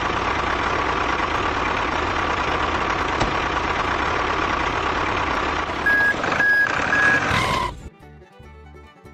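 Truck engine running steadily, with three short reversing beeps near the end, after which the engine sound cuts off suddenly.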